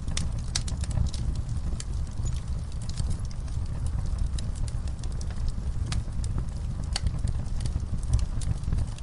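Wood logs and coals burning in a fire pit, crackling with irregular sharp pops over a steady low rumble.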